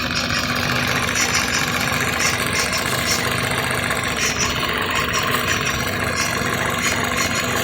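Toyota Probox engine idling at steady revs with an irregular snorting puff, a misfire ('sneezing'). The owner first suspected a burnt-through exhaust at the muffler or manifold; the cause was cracked ignition coil boots arcing to the engine.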